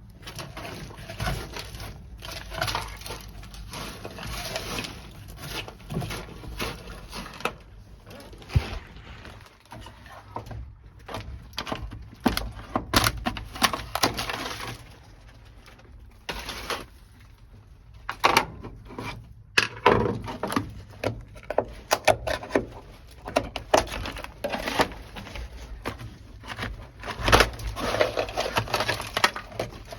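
Dry-ice-frozen, brittle sound-deadening mat being cracked and scraped off a car's sheet-metal floor: a busy, irregular run of sharp cracks, knocks and scrapes as pieces break away and clatter, with the loudest hits in clusters about halfway through and near the end.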